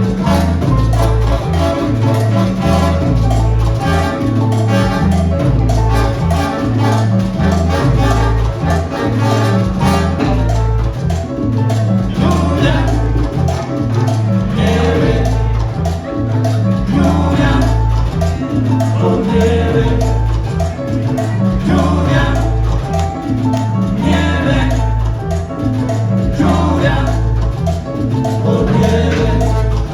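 Salsa band playing live, with a steady repeating bass line under percussion and the rest of the band.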